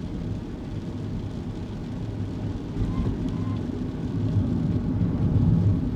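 Steady engine and road rumble heard inside a kei car's cabin while driving on a wet road, swelling a little louder near the end. A faint pair of short squeaks comes about three seconds in.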